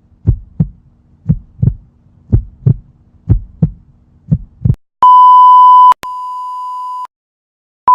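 Heartbeat sound effect: five low double thumps, lub-dub, about a second apart. They give way to a long, steady, high electronic beep, then a quieter beep, and another loud beep starting near the end, like a heart monitor flatlining.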